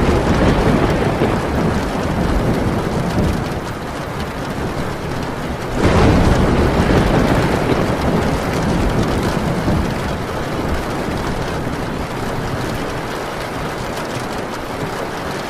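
Heavy rain falling steadily on a metal tin roof, with rolling thunder: one rumble already under way at the start and fading, and a second that breaks about six seconds in and dies away slowly.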